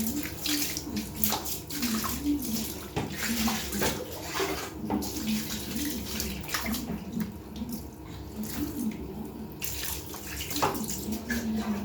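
Water splashing and running in a tub as a cat is washed, in irregular splashes, with a low wavering voice-like hum underneath.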